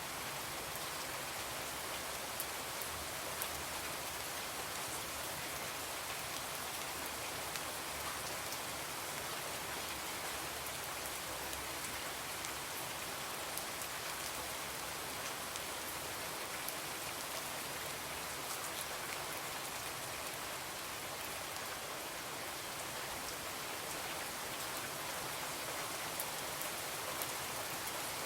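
Steady rain falling on a window and surfaces, an even hiss with a few faint sharp ticks scattered through it.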